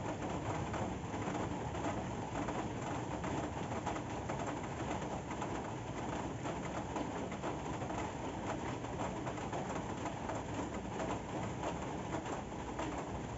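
Steady rain falling, an even dense patter with no breaks.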